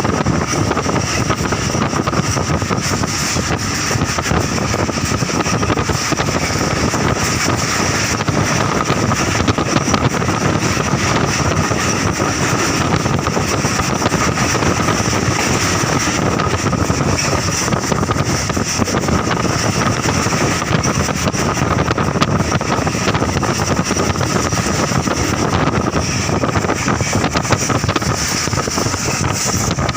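Passenger train running steadily: a continuous rumble and rush of noise, with wind buffeting the microphone.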